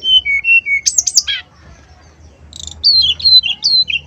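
Brown-chested jungle flycatcher song: a short phrase of clear whistled notes stepping down, then quick falling sweeps about a second in; after a pause, a faster run of warbled notes starts about two and a half seconds in.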